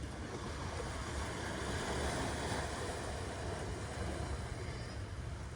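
Ocean surf washing on a beach: a wave swells to its loudest about two seconds in, then eases, over a steady low rumble.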